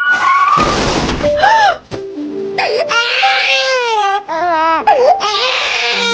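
Wavering, whimpering cries that slide up and down in pitch, over background music.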